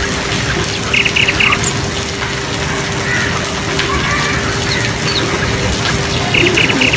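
Steady rain with birds calling over it: a quick run of four or five short chirps about a second in and again near the end, with a few single calls between.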